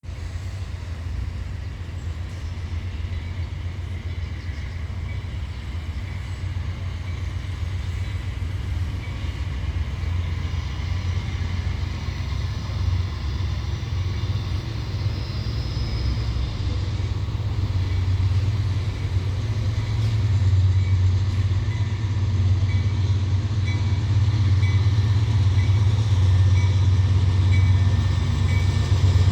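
Freight train's three diesel locomotives working hard at the start of a steep climb, a deep steady engine drone that grows louder as they come closer. Faint regular clicks, about one a second, come in near the end.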